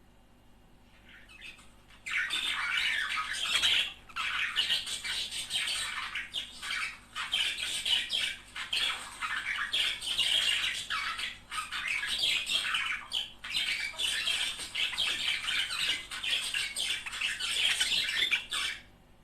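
Budgerigars chattering and warbling: a fast, continuous stream of squawks and chirps that starts about two seconds in, with brief pauses, and stops just before the end.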